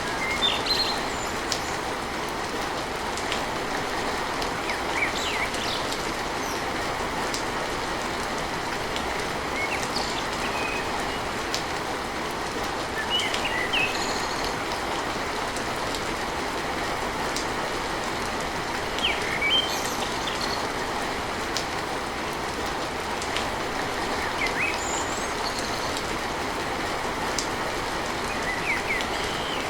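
Steady heavy rain drumming on a tin roof, an even hiss of drops. A bird gives short high chirps every few seconds.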